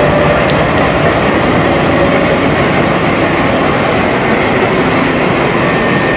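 A train's coach wheels running on the rail right beside the microphone, giving a steady, loud rumble of steel wheels on track.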